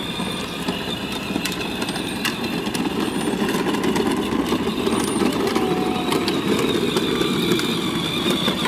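A child's ride-on toy car driving: a steady rumble from its motor and plastic wheels rolling over the ground, a little louder in the middle.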